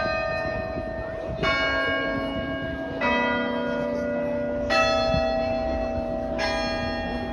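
Cathedral bells striking one note at a time, each a different pitch, to play a slow hymn melody. There are five strikes, about one and a half seconds apart, and each note rings on under the next.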